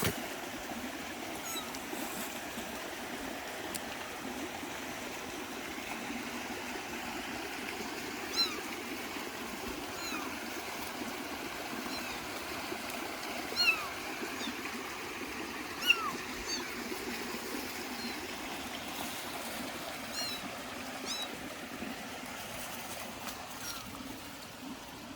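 Steady rush of a running stream, with a kitten mewing in short high calls now and then, loudest about eight, thirteen and sixteen seconds in.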